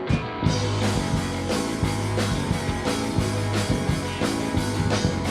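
Live rock band playing: the drums and bass guitar come in under the electric guitar at the start, with a steady beat of drum strikes about two a second, an instrumental stretch before the vocals.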